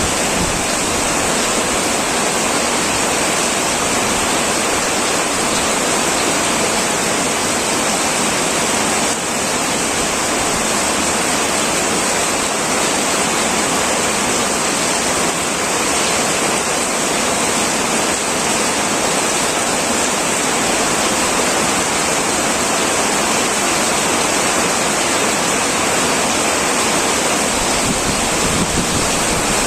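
Heavy rain falling steadily on a metal roof, a dense, even hiss with no breaks or thunder.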